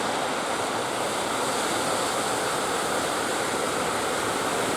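Steady roar of heavy sea surf, with strong wind, holding level throughout with no distinct strokes or engine note.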